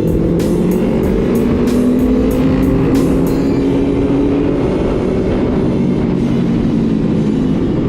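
A motorcycle engine running steadily on the road under background music. A steady beat of sharp ticks stops about three and a half seconds in.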